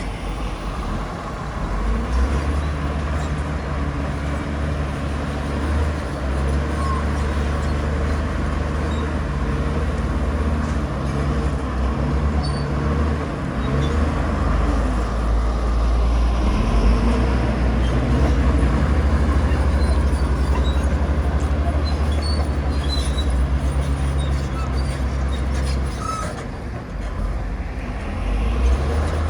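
Heavy diesel earthmoving machinery running steadily with a deep engine rumble, dipping briefly about three seconds before the end.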